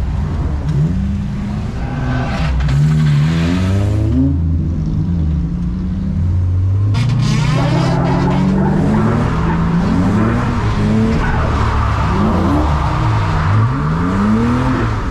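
Drift cars' engines revving up and down in quick surges as they slide in tandem on a wet track, several engines overlapping over a steady hiss of tyres. The engines ease off briefly about four seconds in, then rise again about seven seconds in.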